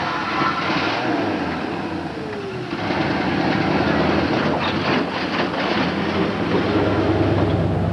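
A car engine running: its pitch falls over the first few seconds, then it runs louder and steadier, with a low drone near the end.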